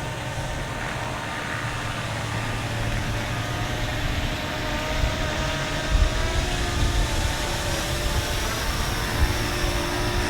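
Parrot Anafi quadcopter's motors and propellers whining with several steady pitches, growing a little louder as the drone comes back down. Wind rumbles and buffets the microphone in low gusts from about five seconds in.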